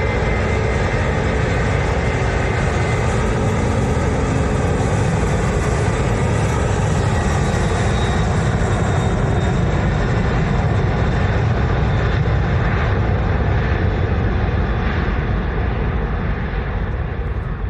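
Jet airliner's engines passing low and close, a loud, steady rush with a thin whine in the first half. The high part of the sound fades away from about eleven seconds on as the aircraft moves off.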